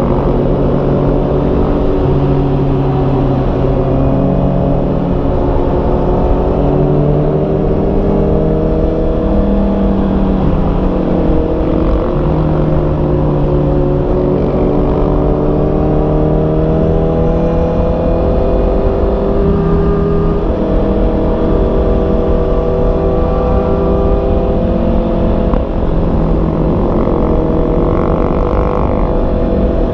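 Honda CB650R's inline-four engine running while the motorcycle is ridden, its pitch climbing and then jumping with throttle and gear changes several times, over a steady low rumble of wind and road noise.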